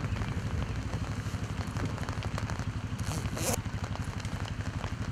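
Rain pattering on an umbrella, with wind buffeting the microphone as a low rumble. A brief rustle of handling about three seconds in.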